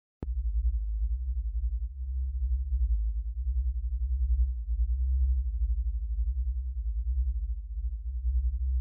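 Low binaural-beat sine tones: a deep steady hum that wavers quickly in loudness, switching on with a click just after the start.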